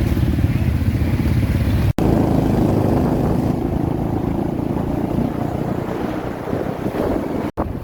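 An engine running with wind buffeting the microphone, a steady low rumble that cuts out sharply twice, about two seconds in and near the end, where the clips are joined.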